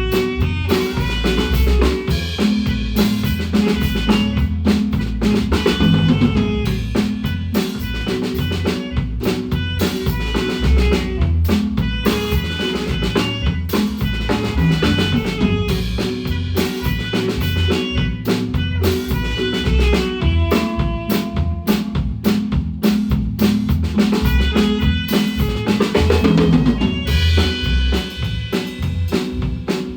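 Guatemalan marimba band playing with a drum kit: quick, short pitched notes over steady drumming with snare and bass drum.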